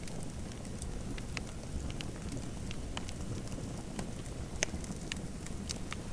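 Fireplace fire crackling: a steady low rumble with irregular sharp pops and snaps scattered throughout.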